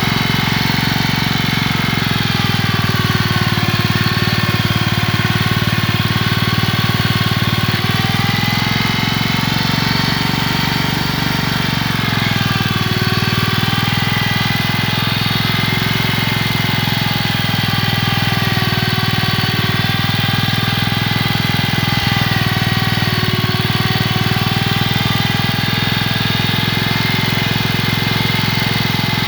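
1947 Gibson Model D tractor's engine running steadily as the tractor drives, its pitch sagging and recovering a few times as the engine speed shifts.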